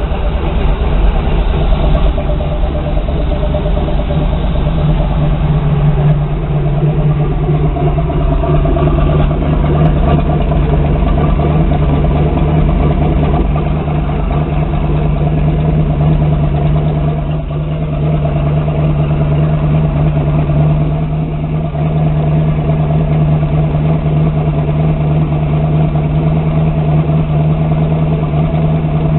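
Ford 351 Windsor V-8 marine inboard engine idling steadily soon after a cold start, with a brief dip in level twice midway.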